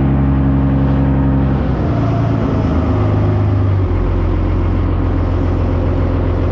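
Cummins diesel engine idling in a swapped monster truck, its pitch shifting slightly about two seconds in and again about four seconds in.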